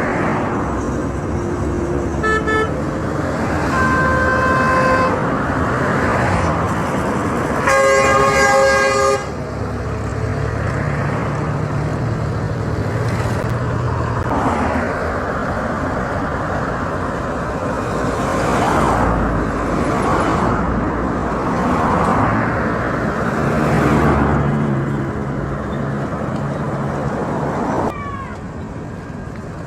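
Road traffic with car horns: two short toots about two seconds in, a longer horn around four seconds, and a loud horn around eight seconds. After that, vehicles pass one after another, each swelling and fading, over a low engine hum.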